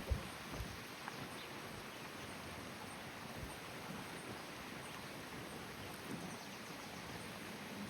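Faint, steady outdoor background hiss, with a single low knock right at the start.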